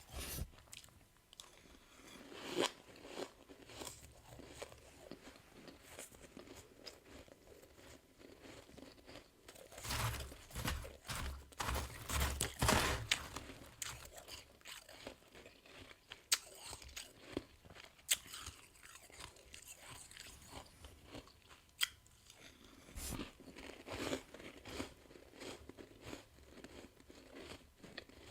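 A person biting and chewing soft freezer frost in irregular crunchy bites, with a denser, louder run of crunching near the middle.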